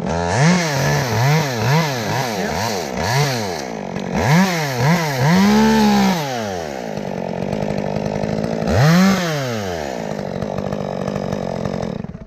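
Chainsaw engine being revved in a run of quick throttle blips, then held up longer once, dropping back to a steady idle, revved once more about nine seconds in, then cutting off suddenly near the end.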